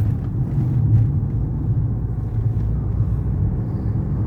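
Car driving along a zigzag mountain road, heard from inside the cabin: a steady low rumble of engine and road noise.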